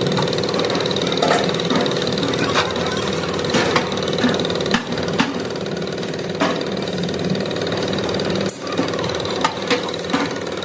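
Machinery running with a steady hum, with scattered sharp clicks and knocks over it.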